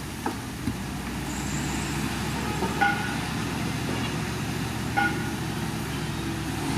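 Heavy diesel earthmoving machinery running steadily, with two short high-pitched squeaks about two seconds apart.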